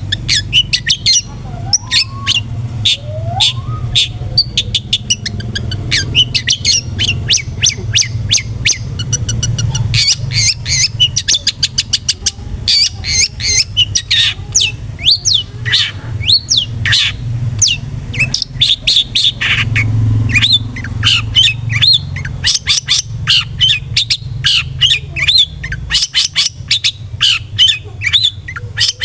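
Long-tailed shrike (cendet) calling without a break: a rapid run of sharp, harsh chattering notes and squawks mixed with quick whistled glides, over a low steady hum.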